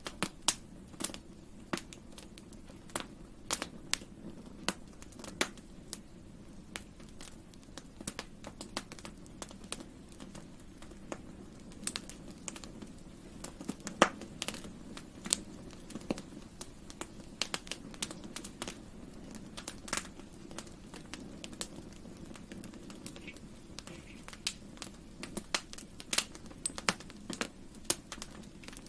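Wood fire crackling: irregular sharp pops and snaps over a steady low rumble of flames, with one louder pop about fourteen seconds in.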